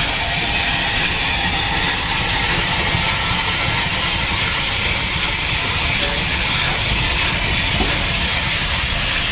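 Steam locomotive letting off steam: a loud, steady hiss over a low rumble.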